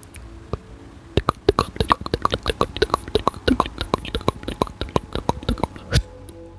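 Rapid ASMR mouth sounds: quick wet tongue clicks and lip pops, several a second and layered over one another, from about a second in until near the end. Behind them runs soft background music of steady held tones.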